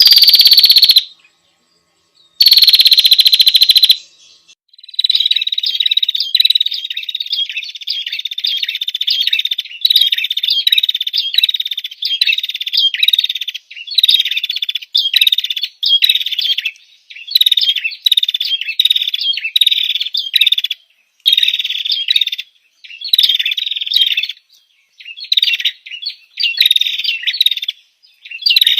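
Female prinia (prenjak) calling, used as a lure call to draw in males. Two loud drawn-out calls in the first four seconds, then a long series of rapid, high chattering phrases, each about a second long with short breaks between them.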